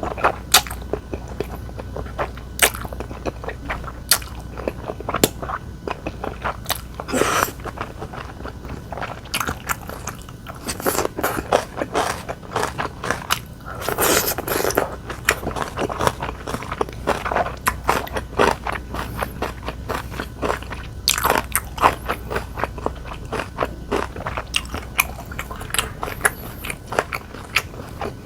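Close-miked eating: a rapid, irregular run of crunchy bites and chewing sounds, with a few longer wet smears in between.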